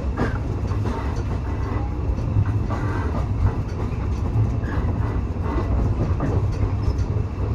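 Railway carriage running along the track, heard from on board: a steady low rumble with scattered light clicks from the wheels and track.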